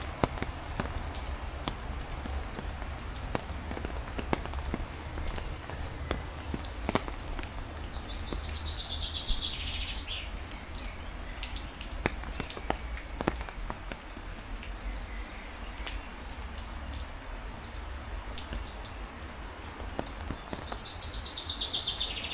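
Heavy rain falling, with single drops pattering sharply close by over a low rumble. A songbird sings a short, rapid, falling trill twice, about eight seconds in and again near the end.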